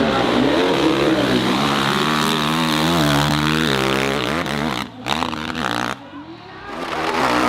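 Dirt bike engine revving hard under load, its pitch rising and falling with the throttle, then dropping away about five seconds in and picking up again near the end.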